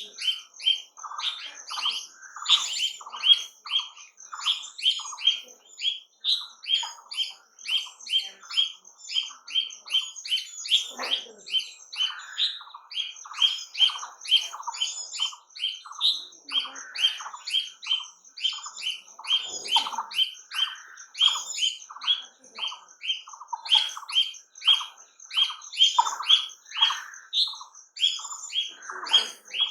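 Birds calling in a dense, busy chorus of short chirps and squawks, two or three calls a second, several birds overlapping.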